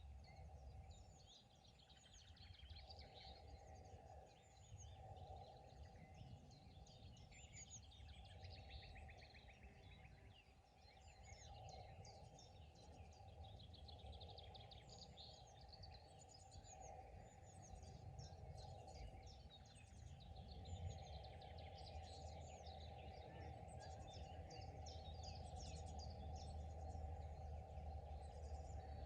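Faint mixed birdsong from several songbirds: overlapping chirps, whistled phrases and a rapid trill about eight seconds in, over a steady low rumble.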